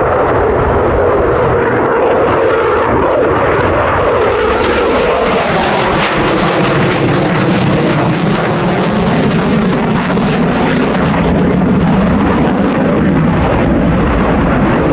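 F-15 fighter jet's engines roaring loudly and steadily as it flies by, the pitch sliding slowly downward while a hiss swells and fades in the middle.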